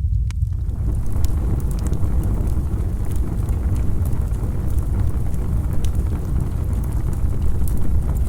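Campfire burning: a steady deep rumble with scattered sharp crackles and pops.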